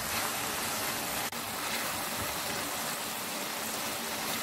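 Sliced tomatoes and chopped onions frying in hot oil in a pan, giving a steady sizzle.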